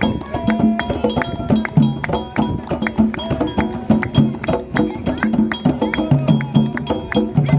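Candomblé percussion: atabaque hand drums played by alabês in a fast, dense rhythm, with a struck bell ringing over the drums.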